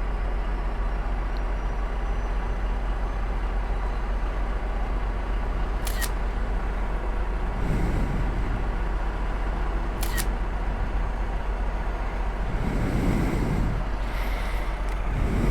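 Indian Scout Bobber motorcycle's V-twin engine running steadily, with road and wind noise. Two sharp clicks come about six and ten seconds in.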